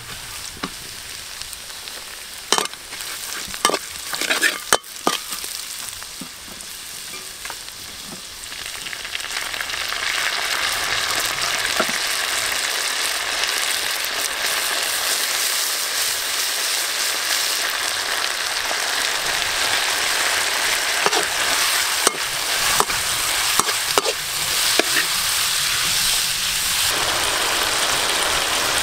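Oil sizzling in a wok as shredded ginger and garlic are stir-fried, with a spatula scraping and knocking against the pan during the first few seconds. About nine seconds in, the sizzle grows louder and turns into a steady, dense hiss.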